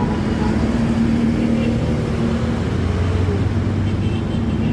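Steady low rumble of a running motor vehicle engine, its hum shifting lower a little past halfway.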